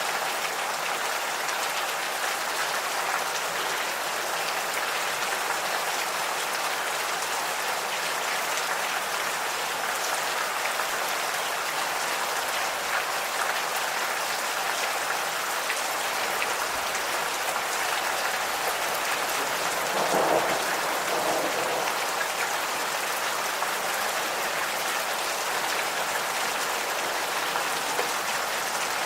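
Gentle rain falling steadily on surfaces, an even hiss of drops, with one brief, slightly louder low sound about two-thirds of the way through.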